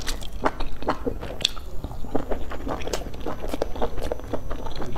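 A person biting and chewing a soft steamed bun dipped in chili oil: a run of irregular short, wet mouth smacks and clicks.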